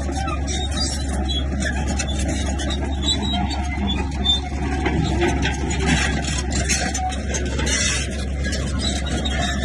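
Bulldozer's diesel engine running with a steady low drone, with continuous irregular mechanical clatter over it.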